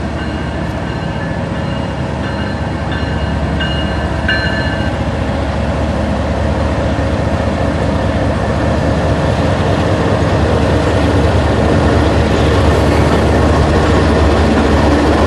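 Canadian National freight train led by two diesel locomotives passing close by, with a deep diesel engine rumble and wheel-and-rail noise growing steadily louder as the locomotives go by.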